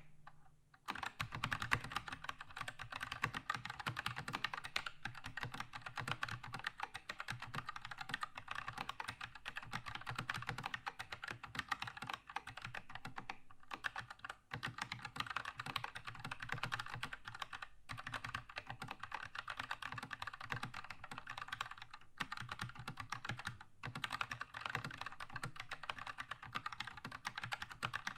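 Keychron K2 mechanical keyboard with linear red switches being typed on steadily, a fast, continuous stream of key clacks and bottoming-out taps, with a short pause about a second in.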